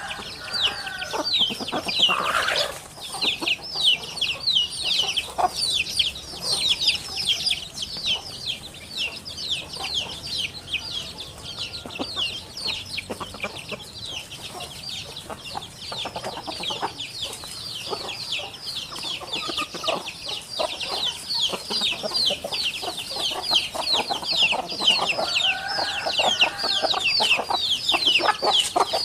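Many birds chirping without a break in quick, high, downward-slurred notes, with a lower, fuller call about a second in and again near the end.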